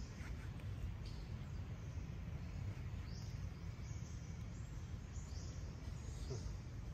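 Outdoor ambience: a steady low rumble with short, high bird chirps coming every second or two.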